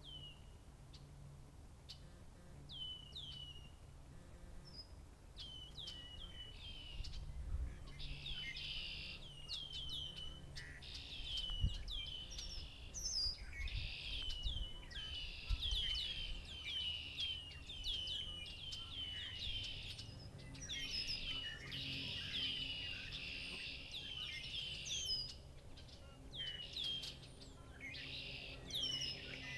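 Chorus of many songbirds led by red-winged blackbirds, repeated sharp calls mixed with buzzy trills. A few single calls at first, thickening into a dense overlapping chorus after about six seconds.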